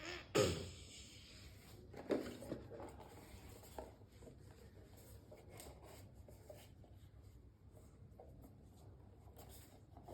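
Toy pieces being handled: light rubbing and scraping with scattered small ticks, and two louder brief knocks, one just after the start and one about two seconds in.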